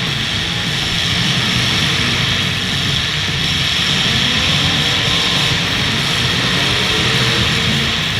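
Several demolition derby cars' engines running hard in a steady, loud mass of engine noise, with no distinct crash impacts standing out.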